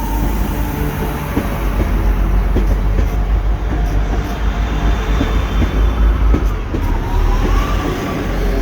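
Three-carriage diesel multiple-unit train moving close alongside the platform, with a loud, steady low rumble and faint whining tones over it.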